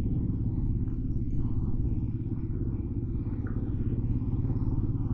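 Motorcycle engine running steadily while riding, a low, even note with no revving.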